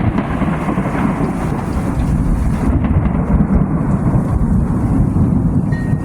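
A thunderclap: a sudden crack right at the start, then a long, low, rolling rumble that goes on without a break.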